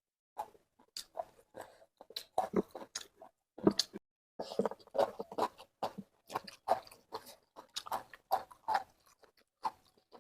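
A person chewing food close to the microphone, with many short, irregular chewing and biting sounds.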